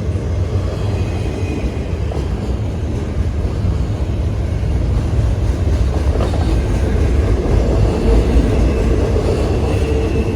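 A train passing close by, with a loud, steady low rumble and the running noise of its cars on the rails.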